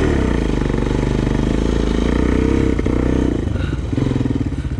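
Single-cylinder Honda sport quad engine running with revs wavering, then settling into a steady idle about three and a half seconds in.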